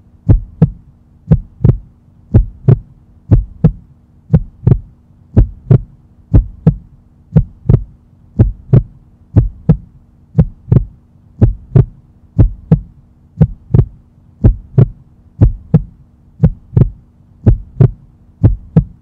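Heartbeat sound effect: a steady lub-dub double thump repeating evenly over a low, steady hum.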